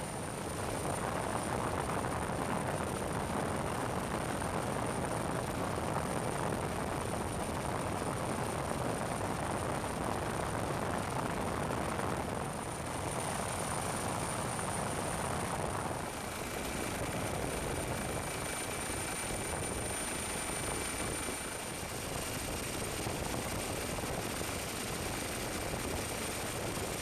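Steady helicopter noise, its character shifting slightly a few times.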